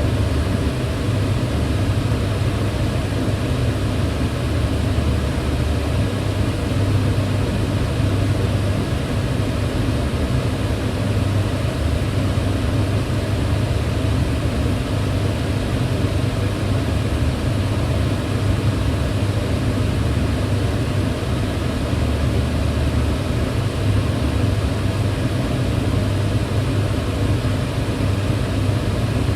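Kitchen range hood's extractor fan running steadily: a constant low hum under an even rush of air, with no change.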